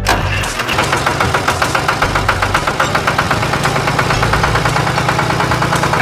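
An engine running steadily with a rapid, even chugging of about ten beats a second. It starts abruptly and stops near the end.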